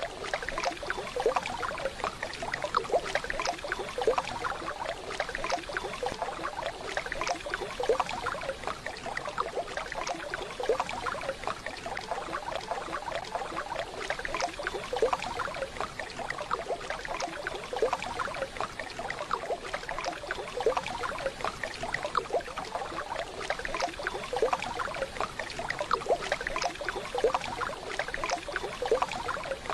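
Waterfall: rushing, splashing water running steadily, with a constant patter of small splashes.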